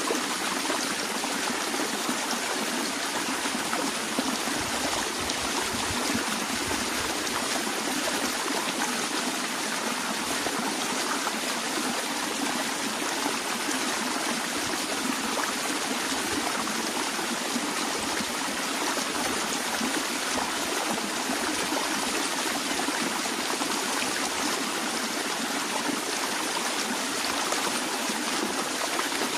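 Natural stream water flowing gently, a steady, even rush and trickle with no breaks.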